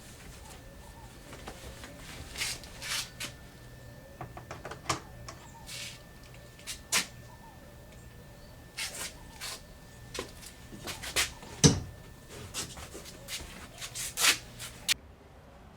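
Irregular light knocks and clicks, many of them, scattered unevenly over a faint steady hum, with one louder knock about two-thirds of the way through.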